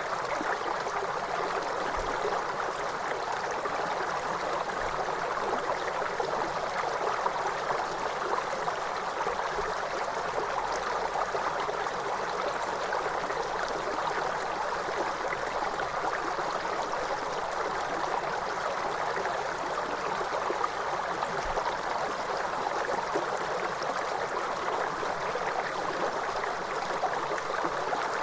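Waterfall: water falling steadily, an even noise with no breaks or changes.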